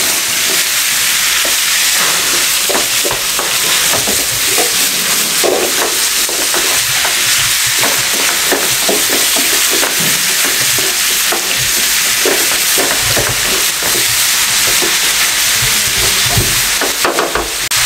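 Boneless chicken strips frying in oil with chopped garlic in a metal wok, a steady sizzle, as the chicken is cooked until it loses its raw colour. A wooden spoon stirring the pieces gives repeated scrapes and knocks against the pan.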